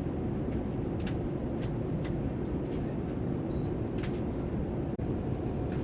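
Steady rumble of engine and airflow noise inside a Boeing 787-9 airliner cabin, with a few faint short ticks.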